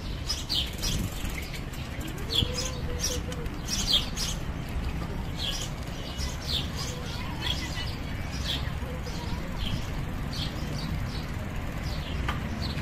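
Small birds chirping in the trees: many short, high chirps repeating throughout.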